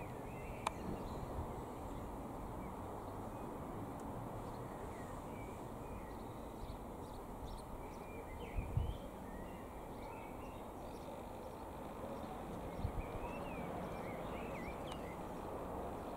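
Small birds chirping in short, quick calls again and again over a steady low rumble of outdoor background noise, with a couple of dull low bumps about halfway through.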